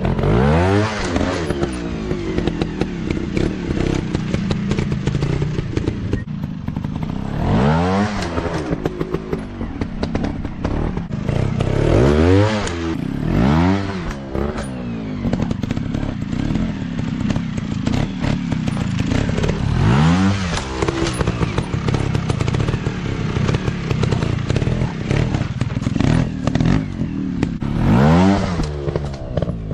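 Off-road motocross bike engines revving in repeated throttle bursts, the pitch sweeping up and dropping back about half a dozen times, with clattering and knocks from the bikes working over rough ground.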